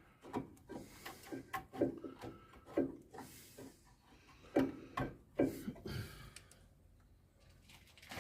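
Irregular clicks, knocks and scraping of metal brake parts and tools being handled while the caliper is fiddled into place, fading toward the end.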